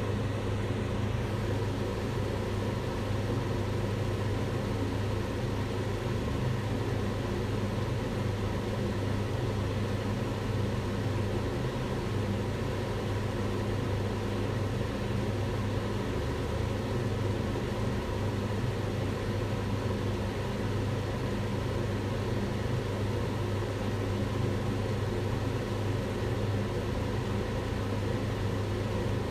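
Kitchen range hood fan running steadily: an even whooshing hum with a strong low drone.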